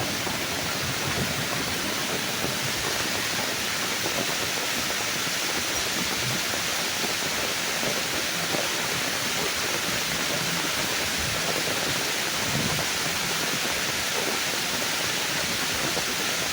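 Rain pouring steadily onto tree leaves, an even hiss with no thunder.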